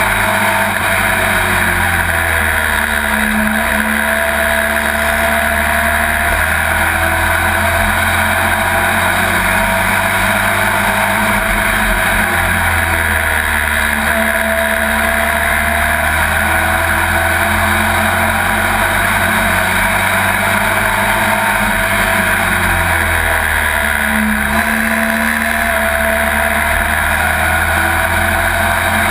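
Pro Truck race truck engine heard from inside the cab at racing speed, loud and continuous. The revs drop and climb again in a cycle that repeats about every ten seconds, lap after lap, over steady wind and road noise.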